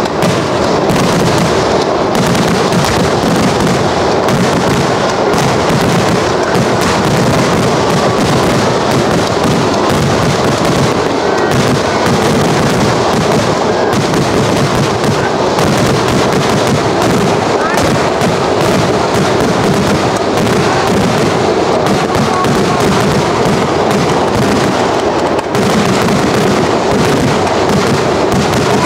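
Kerala temple-festival fireworks (vedikettu) going off in a dense, continuous barrage: bangs and crackle follow each other so closely that there is no pause.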